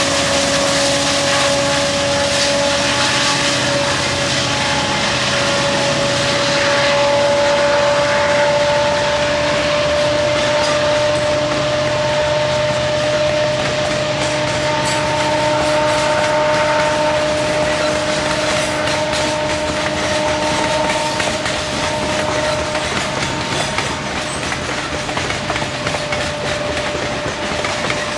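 Loaded coal train rolling past, its steel wheels clacking over the rail joints, with a steady high-pitched whine held over the rumble.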